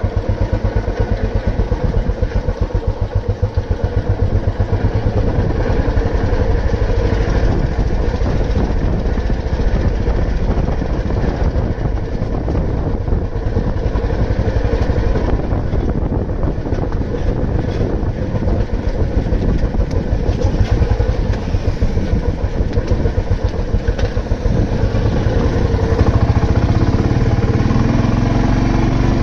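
Royal Enfield Bullet 350's single-cylinder four-stroke engine running steadily under way, its exhaust beating evenly; near the end the pitch rises as the bike picks up speed.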